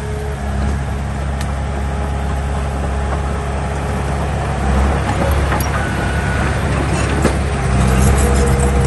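Heavy diesel engine of earthmoving equipment running steadily under load, with a few faint clicks and brief thin squeaks over the engine; it grows louder about eight seconds in.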